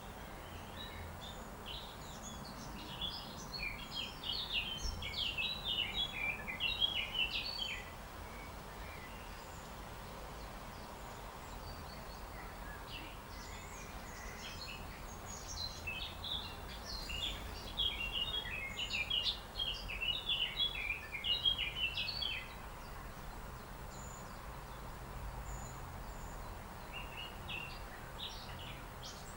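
A bird singing in bouts of rapid, high chirps and twitters, three bouts with pauses between them, over a steady background hiss and rumble.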